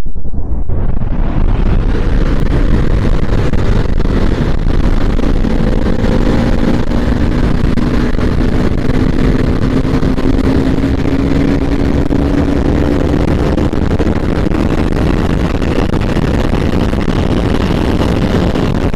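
Bajaj Pulsar NS200's single-cylinder engine under way at speed, its note dipping briefly at the start and then climbing slowly and steadily as the bike pulls, with heavy wind rush over the microphone.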